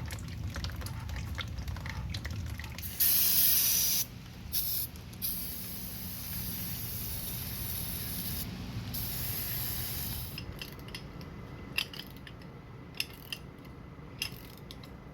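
Aerosol spray can hissing in several long bursts with short breaks, starting about three seconds in and stopping about ten seconds in: penetrant sprayed to free a seized engine that will not turn over.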